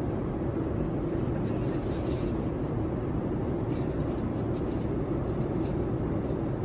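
Steady in-flight cabin noise of a Boeing 787-9: a low, even rumble and rush from the engines and airflow, with a few faint clicks.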